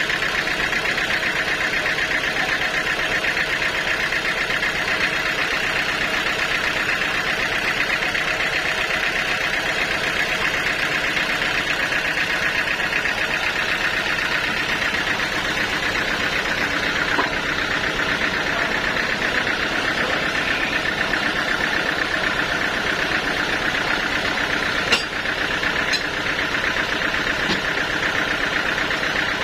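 Sawmill machinery running steadily, a constant mechanical drone with a bright upper band, broken by a sharp knock about twenty-five seconds in and a smaller one a second later.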